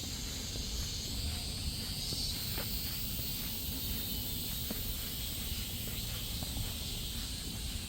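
Footsteps on a park path, about two steps a second, over a steady high chorus of insects, with a low rumble of wind on the microphone.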